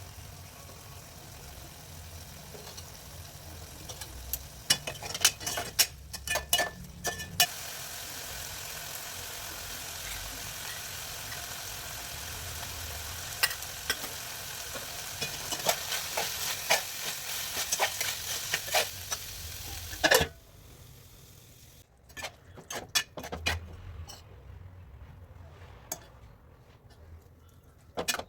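Chicken curry sizzling in a hot pan while a spatula stirs it, with clusters of sharp clicks and scrapes of the spatula against the pan. About twenty seconds in the sizzling drops away sharply, leaving only a few quieter clicks of stirring.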